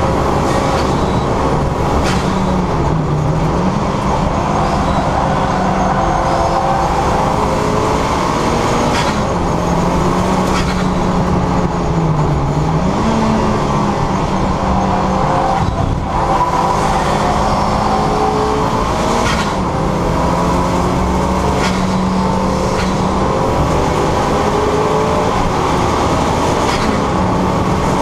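Turbocharged 2.0 Duratec four-cylinder engine of a Ford Fiesta ST150 running hard at track speed, with its pitch dipping and climbing again a few times as the throttle and gears change.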